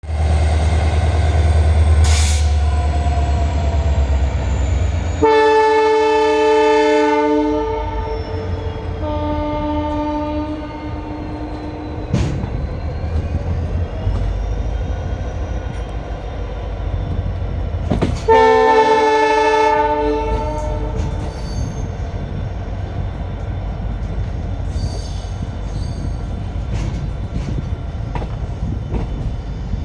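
Indian Railways train sounding its horn three times: a long blast about five seconds in, a shorter one around nine seconds, and another long one around eighteen seconds, over the steady rumble of the moving train.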